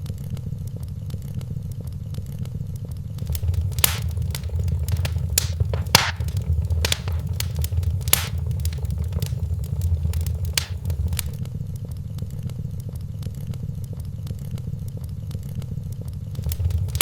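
Wood fire burning in a fireplace: a steady low rumble of flames with irregular sharp crackles and pops, busiest in the middle.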